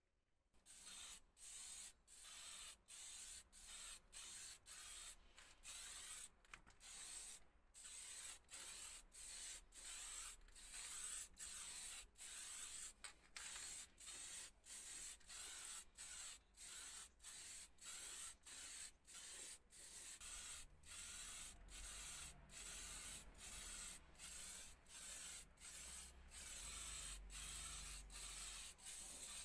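Paint being sprayed in quick repeated bursts, about two a second, each a short hiss with brief breaks between.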